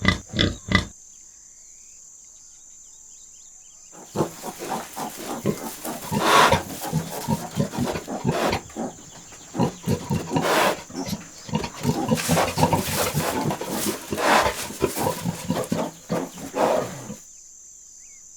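Domestic pig grunting over and over in quick succession, starting about four seconds in and stopping shortly before the end. A few short, sharp sounds come at the very start.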